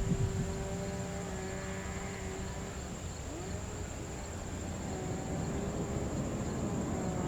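Steady low rumble of distant jet aircraft engines, with wavering engine tones that dip and recover about three seconds in, over a constant high, thin insect drone.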